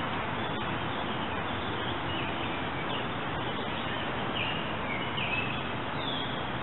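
Small birds chirping, a string of short high calls and quick slides, over a steady rushing hiss.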